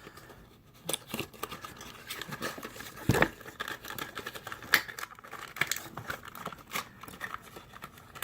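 Die-cast toy car packaging being handled and opened: irregular crinkling, tearing and sharp plastic clicks, the loudest clicks about three seconds in and again near five seconds.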